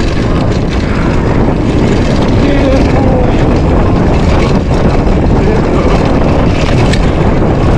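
Loud, steady wind rush on a GoPro's microphone, with mountain bike tyres rumbling over a dirt trail at speed.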